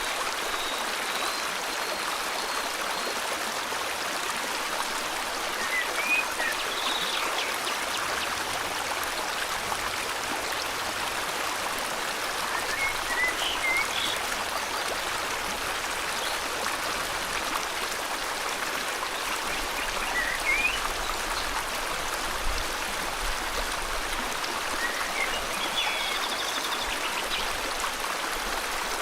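River water flowing steadily, with birds chirping in short scattered calls now and then over the rush of the water.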